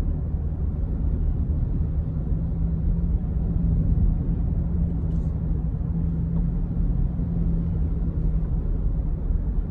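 Steady low rumble of engine and road noise heard inside a moving vehicle's cabin.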